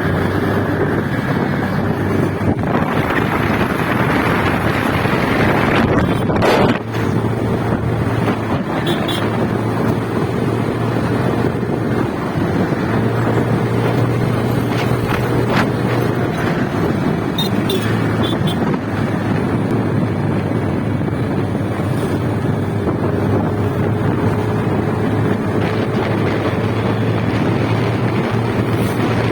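Motorcycle engine running at a steady pace while riding, with heavy wind buffeting the microphone. There is one sharp knock about six seconds in.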